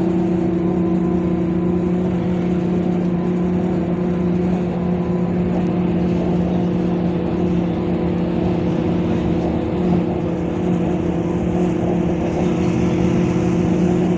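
Scania K230UB bus's diesel engine running steadily under way, a constant drone with a steady two-note hum.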